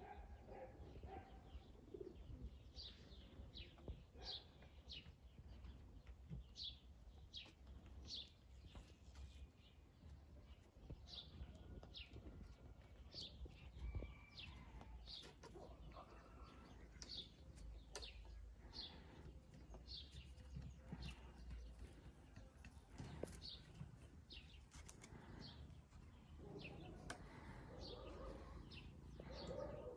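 A small bird chirping faintly over and over: short, high, falling chirps, about one or two a second.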